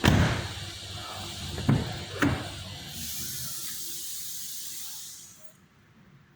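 A hissing spray in two stretches, opening with a sharp thump, with two sharp knocks in the middle, and cutting off suddenly near the end.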